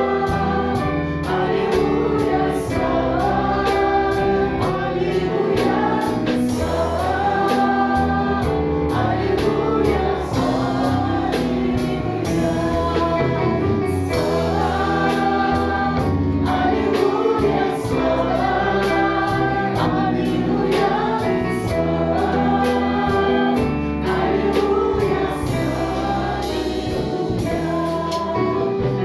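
Choir singing a Christian praise song over instrumental backing with a steady beat.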